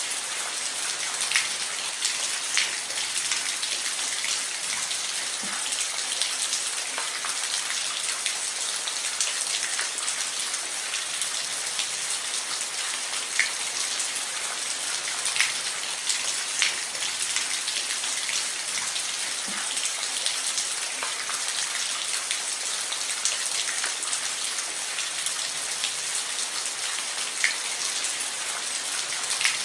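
Steady rain falling on a roof: a continuous hiss with scattered distinct drips and drop ticks standing out every second or two.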